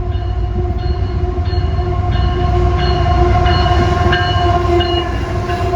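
Approaching CSX freight train led by a GE ET44 diesel locomotive: steady low rumble with a held pitched tone throughout and short higher tones coming and going.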